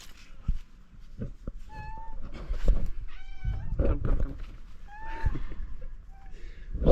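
Stray cats meowing, about five or six short calls one after another, with a few light knocks in between.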